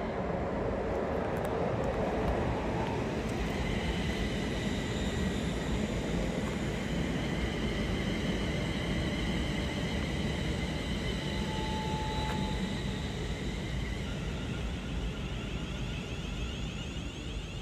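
A train passing: a steady rumble of wheels on the rails, with faint high steady tones over it.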